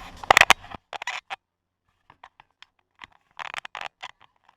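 Brush being worked over new plywood as a first coat goes on: short scratchy scraping strokes in clusters, one loud burst near the start, another just after a second in, and a further cluster near the end, with silent gaps between.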